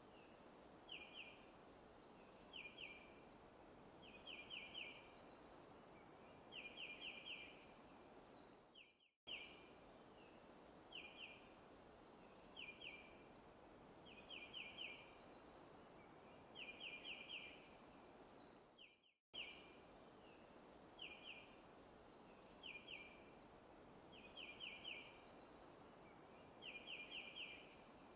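Faint forest ambience: a bird chirping in short groups of one to four quick high notes a second or two apart over a soft steady hiss. The same stretch of about ten seconds plays over and over, with a brief dropout each time it starts again.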